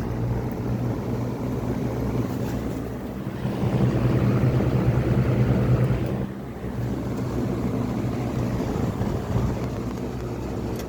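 Old ToastMaster box fan running: a steady electric-motor hum under the rush of air from the blade, louder for a few seconds in the middle.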